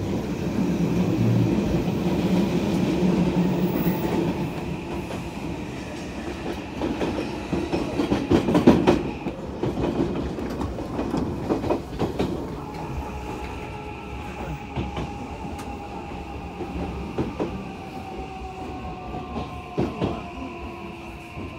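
Commuter train heard from inside the car as it pulls into a station: wheels rumbling and clacking over rail joints and points, thickest about seven to twelve seconds in. Through the second half a whine slowly falls in pitch as the train slows.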